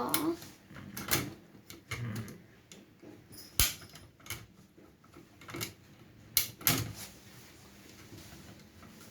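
Parts of a small mini fire-pit grill being handled and fitted together: scattered clicks and knocks, the sharpest about three and a half seconds in, dying away in the last couple of seconds.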